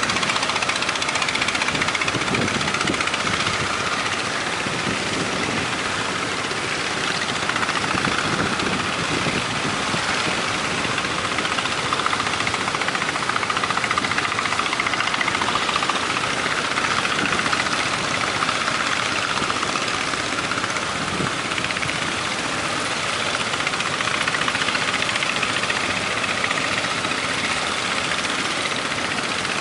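An engine running steadily, without pause and at a constant level, with no clear change in speed.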